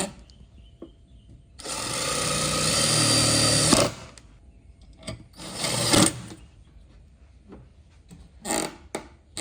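Electric power tool running for about two seconds, then winding down with a falling pitch. A shorter run follows a couple of seconds later, and two brief bursts come near the end.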